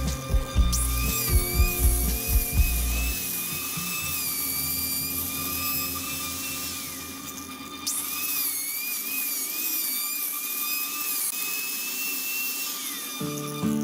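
Angle grinder with a flap sanding disc running against turned wood, its high whine wavering and dipping in pitch as the disc is pressed into the wood. It starts about half a second in, winds down about seven seconds in, starts again a second later, and winds down once more near the end.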